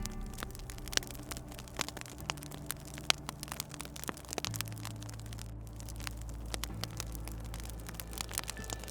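Wood fire crackling, with many small irregular pops and snaps. Under it runs a low, steady humming drone that shifts in pitch a few times.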